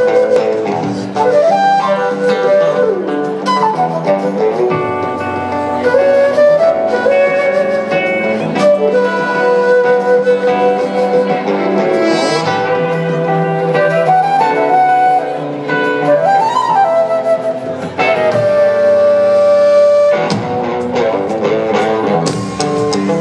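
Live blues-rock band playing an instrumental passage: a slide guitar melody gliding up and down between notes, a flute, sustained keyboard chords and drums.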